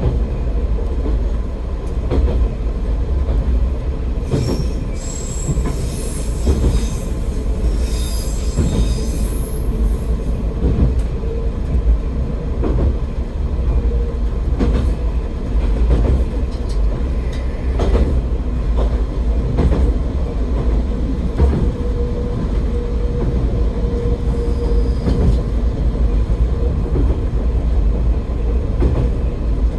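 AN-8800 diesel railcar running along the line, a steady low rumble with the click of its wheels over rail joints. From about four seconds in to about ten seconds, the wheels give a high squeal.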